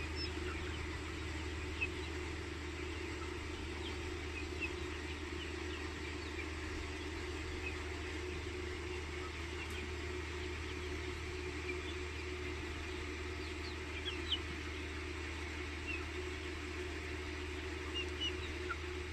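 A flock of broiler chickens calling, with scattered short high cheeps over a steady low hum.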